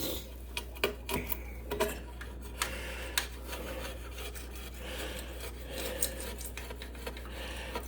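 Razor-blade scraper scraping leftover silicone residue off aquarium glass in repeated strokes, with scattered light clicks.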